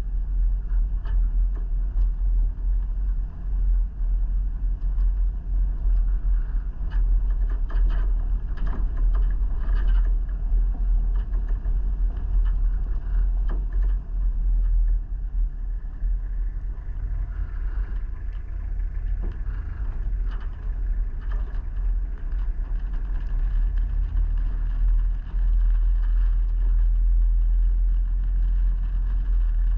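A vehicle on the move: a steady low rumble with scattered rattles and knocks.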